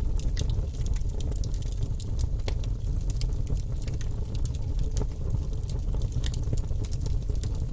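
Fire burning in a fireplace, crackling: a steady low rumble with frequent, irregular sharp pops and snaps.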